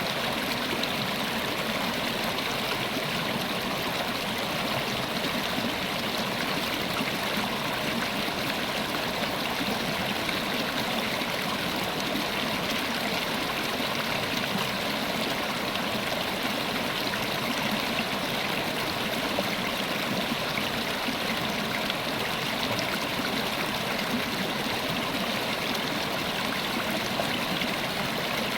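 River water flowing over stones, a steady rushing and babbling that does not change.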